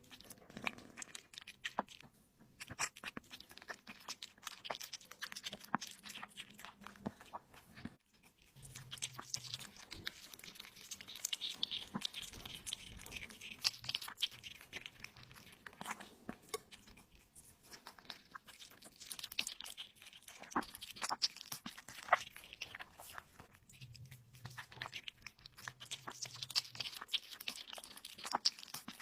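Close-miked mukbang eating sounds: a person biting, chewing and tearing at meat, with irregular wet crunches and clicks throughout.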